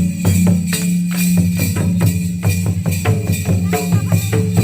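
Traditional Ho Munda dance music: a fast, steady drum beat with jingling percussion and a few short melodic notes.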